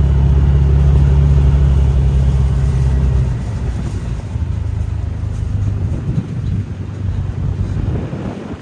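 Can-Am off-road vehicle's engine running steadily while driving on gravel, easing off about three seconds in. After that the engine is quieter, with tyre crunch and rattle over it.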